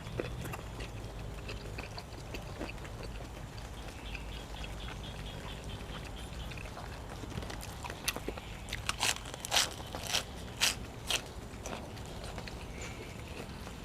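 A person chewing and biting food close to the microphone, with a run of sharp crunches about eight to eleven seconds in.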